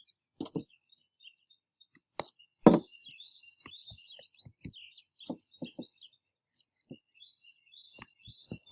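Scattered soft knocks and thumps of salt dough being worked in a mixing bowl, one louder knock almost three seconds in, with birds chirping in the background.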